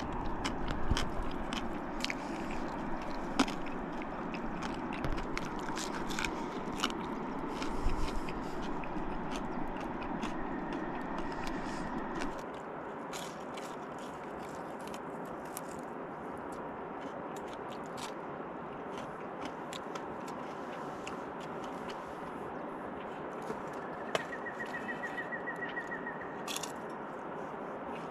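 Crunching and crackling of fried jundiá catfish being eaten, with many sharp clicks, for about twelve seconds. Then it drops suddenly to a steady background hiss, with a short run of rapid high chirps near the end.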